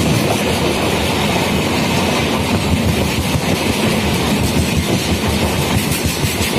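Humsafar Express passenger coaches rolling past close by on the adjacent track: a steady, loud rolling noise of wheels on rail with a fast clickety-clack.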